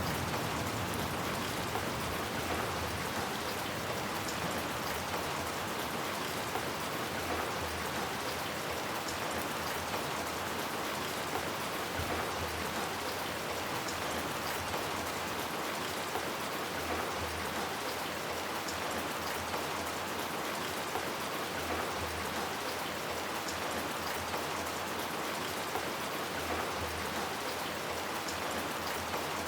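Steady rain falling: an even hiss with scattered drops ticking on hard surfaces.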